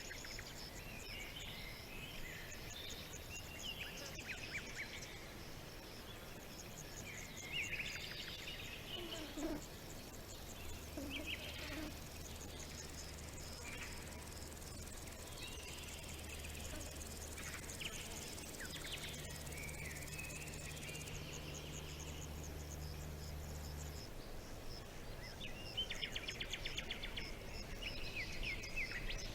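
Several small birds chirping and trilling in short bursts over a steady, evenly pulsing chirr of insects. A faint low hum runs through the middle stretch.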